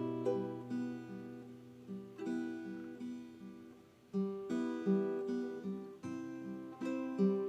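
Acoustic guitar music: plucked and strummed chords in a steady repeating pattern over a held bass note.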